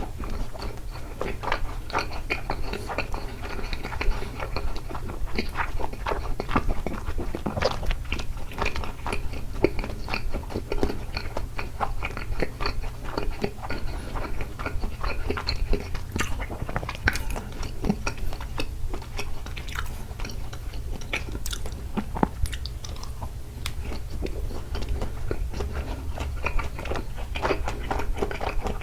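Close-miked chewing and biting of takoyaki: a steady run of small wet clicks and smacks from the mouth, over a constant low hum.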